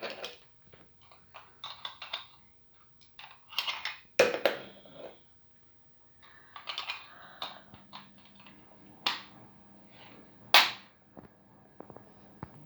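Irregular hard plastic clicks, knocks and rustling as vacuum cleaner parts and their packaging are handled, with the sharpest knocks about four, nine and ten and a half seconds in.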